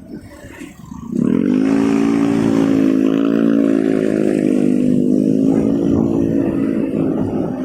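Motorcycle engine revving up as the bike pulls away, rising in pitch about a second in and then holding a steady, loud drone.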